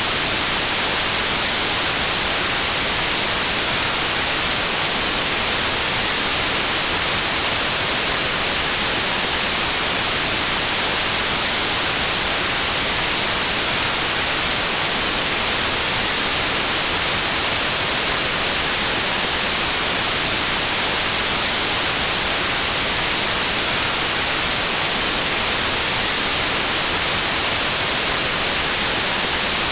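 Steady white noise: an even, unchanging hiss, loud, with the most energy in the high frequencies.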